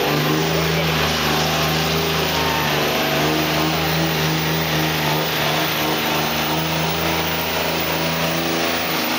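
4x4 diesel truck engine running hard at steady high revs, held nearly constant, typical of a truck straining to drag the weight sled in a truck pull.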